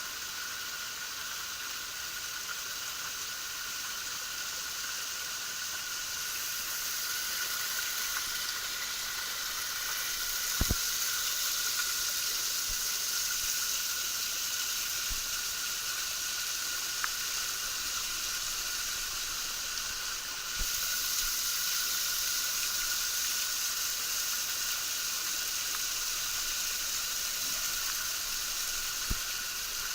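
Small waterfall splashing: a steady rushing hiss of falling water, with a few brief clicks.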